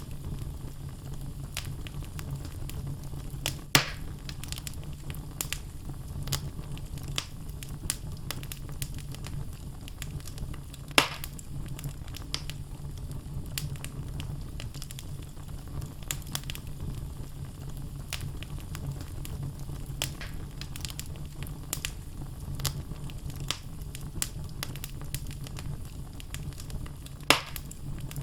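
Wood logs burning in a fireplace, crackling continuously with many small clicks over a low steady rumble. Three louder pops stand out: about four seconds in, about eleven seconds in, and near the end.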